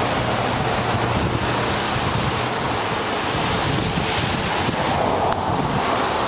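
Wind rushing over the microphone of a camera riding on a moving bicycle: a steady, loud rushing noise.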